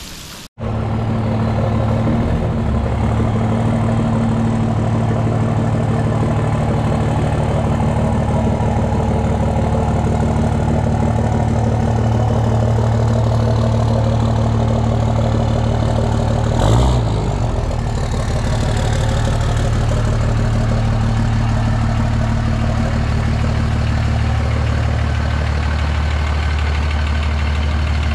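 Dodge Ram 2500's 5.9-litre Cummins inline-six turbo diesel idling steadily through its freshly repaired exhaust, with one brief louder bump about halfway through.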